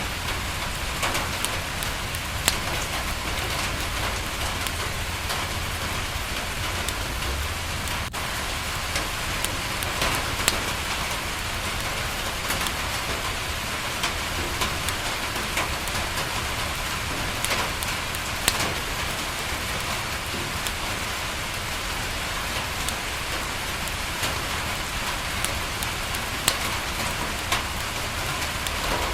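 Steady rain pattering on a window, with scattered sharp clicks every few seconds over a constant low rumble.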